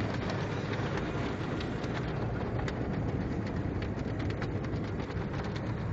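Automatic drive-through car wash running, heard from inside the car: a steady low rumble with many small sharp ticks pattering on the body.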